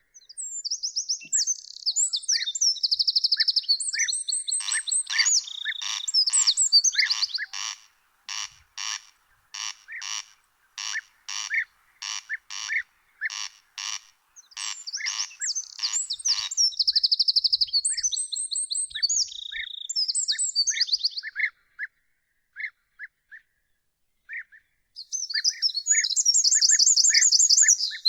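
Songbirds singing: bursts of fast, varied, high-pitched warbling, with single short chirps between them. For about twelve seconds in the middle, a steady series of short harsh calls repeats about twice a second.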